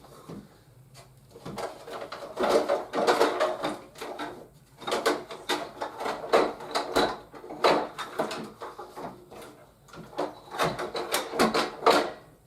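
Hard plastic toy parts and packaging being handled: three bursts of clicking, knocking and rustling, with short pauses between them.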